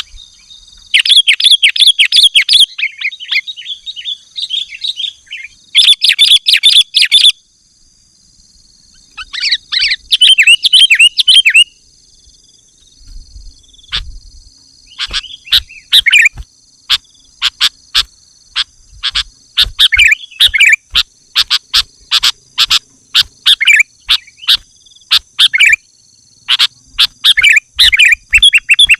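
Sooty-headed bulbul (kutilang) singing loud, rapid chattering phrases in three bursts over the first dozen seconds. After that come many short, sharp call notes in quick succession, with brief song phrases between them.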